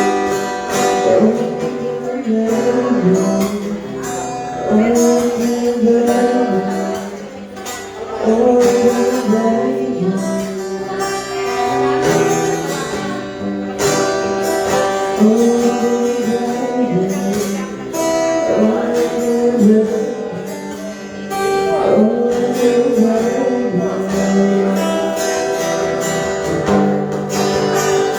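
Guitar music with a plucked melody over chords, playing steadily without a break.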